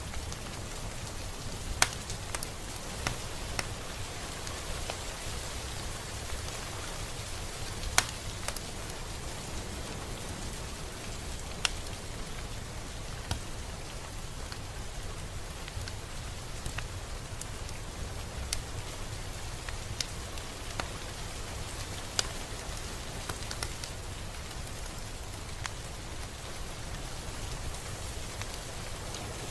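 Steady rain falling, an even hiss with scattered louder drops striking close by, the sharpest about two and eight seconds in.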